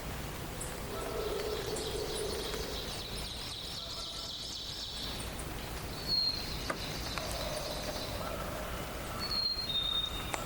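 Songbirds singing over a steady background hiss: a high, trilled song for a few seconds, then short, clear high whistles about six seconds in and twice near the end.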